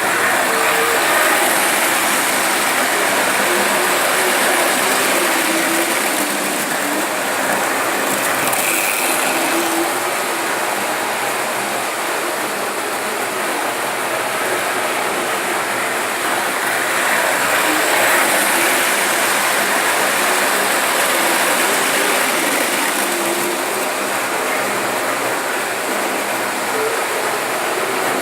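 Märklin model train running on its track: a steady mechanical rattle and whir of wheels and motor, swelling in loudness twice.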